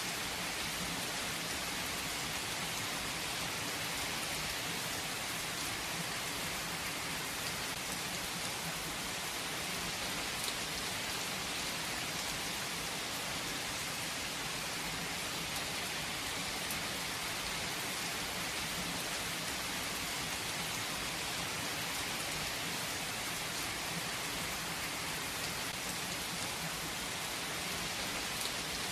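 Steady rain falling and pattering on a surface, a constant even hiss with faint scattered drop ticks.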